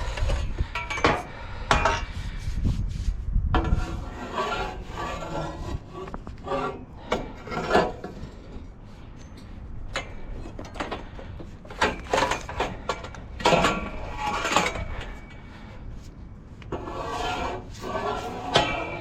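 Metal pipe and scrap being pulled and shifted in a dumpster: repeated clanks and knocks with scraping between them, some strikes ringing briefly.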